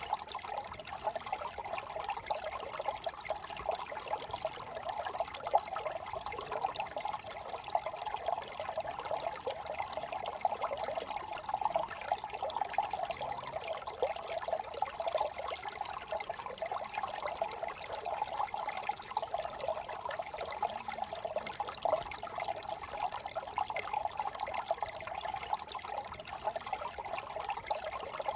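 Small brook trickling and babbling steadily over stones, a continuous gurgle with no pauses.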